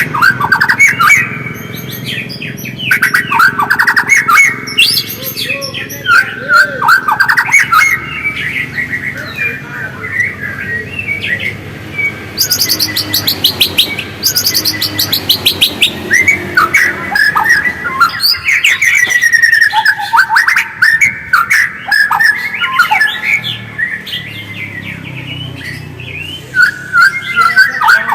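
White-rumped shama (murai batu) singing continuously: a string of varied, sweeping whistled phrases, with a fast run of rapid repeated high notes about halfway through.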